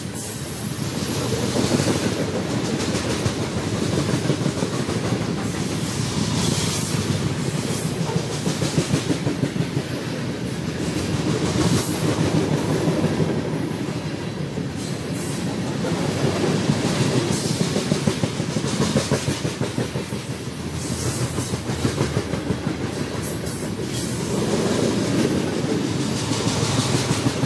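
Freight train cars rolling past, wheels clicking steadily over the rail joints in a continuous clatter that swells and fades in loudness every few seconds.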